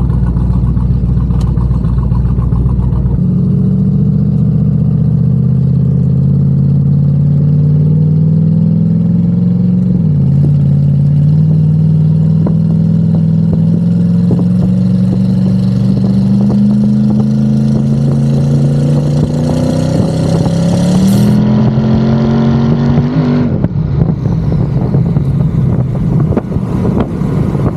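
Twin-turbo LS V8 of a Pontiac G8 accelerating hard under about 10 pounds of boost on wastegate pressure, its note climbing steadily, dropping once with an upshift about ten seconds in and climbing again, then falling away as the driver lifts about 23 seconds in.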